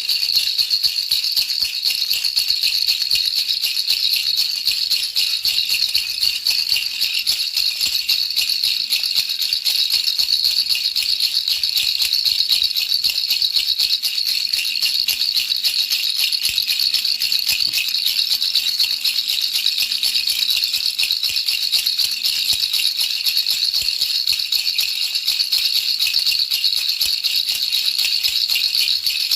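Baby's rattle shaken continuously: a dense, steady, fast rattling, high in pitch, played as soothing white noise for a baby.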